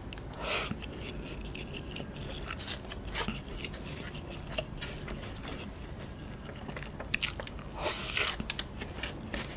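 Close-miked chewing of Mi Sedaap Korean Spicy Chicken instant noodles, cooked but slightly firm and ramen-like, eaten by hand. Louder slurps come about half a second in and again around eight seconds in, as handfuls of noodles are drawn into the mouth.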